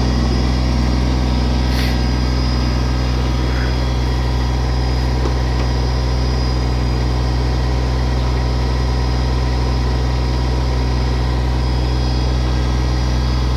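Kubota tractor-loader-backhoe's diesel engine running at a steady, even speed.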